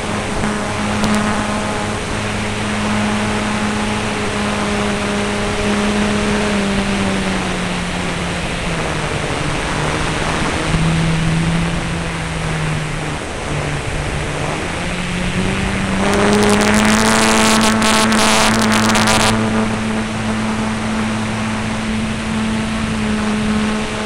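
Engine of an F3A aerobatic radio-control model airplane running steadily. Its pitch sinks as the throttle comes back, about a third of the way in. Past the midpoint it climbs back up, and the sound swells briefly with a rushing hiss about two-thirds through before settling to a steady drone.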